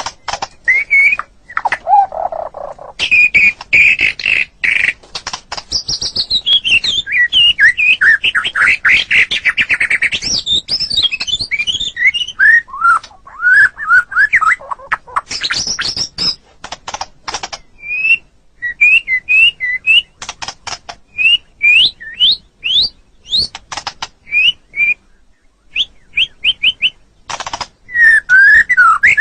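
White-rumped shama (murai batu) singing loud, close and full, a varied run of rich whistles, rapid trills and warbling phrases. In the second half it switches to spaced, short upward-sweeping whistles before another burst of song near the end.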